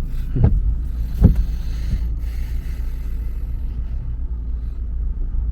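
Steady low rumble of a moving car, with two short sharp sounds in the first second and a half.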